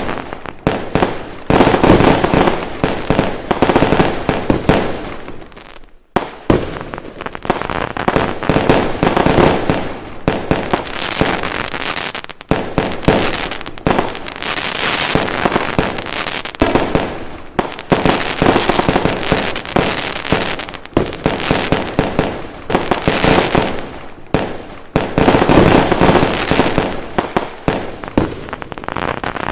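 Fireworks exploding in a dense, continuous barrage of many overlapping bangs, with a brief lull about six seconds in.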